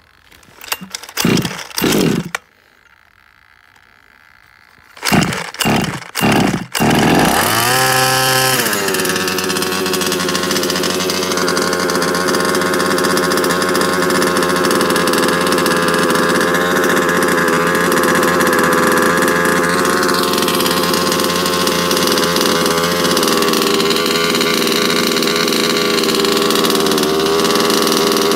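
HPI Baja 5B's two-stroke petrol engine being pull-started from cold: a few short pulls, a pause of about two seconds, a few more pulls, then it catches about seven seconds in, revs briefly and settles into a steady idle.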